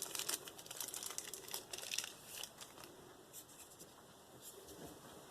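Crinkling, scratchy rustles of the knife blade being wiped clean of diamond paste, busiest in the first half and thinning out toward the end.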